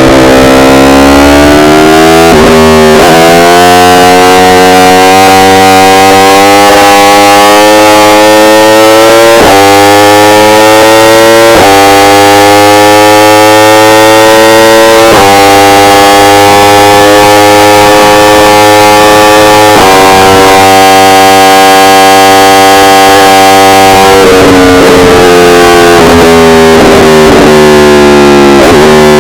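Yamaha R1's inline-four engine pulling hard through the gears, very loud. The pitch climbs steadily in each gear and drops sharply at each upshift, several times. Over the last few seconds the pitch falls as the bike slows down.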